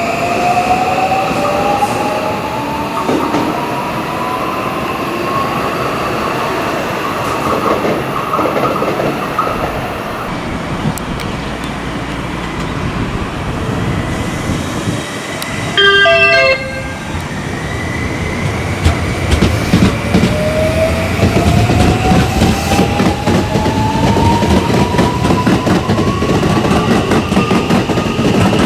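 JR West 521-series electric train pulling away, its inverter motor whine rising in pitch as it gathers speed, twice over, above the rumble of wheels on rail. About halfway there is a brief loud horn-like tone.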